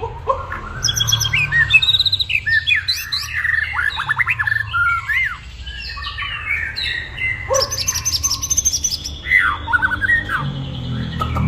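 White-rumped shama in full song: a fast, varied stream of whistled phrases, rapid note runs and sliding notes, one phrase after another with only brief pauses.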